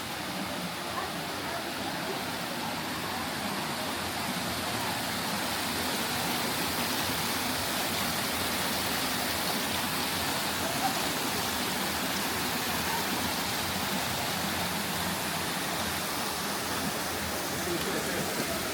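Steady rush of running water, an even hiss holding at one level throughout.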